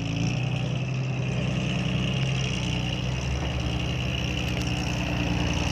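Six-wheel dump truck's diesel engine running at steady revs, a low even drone, as the loaded truck works its way up a muddy clay ramp.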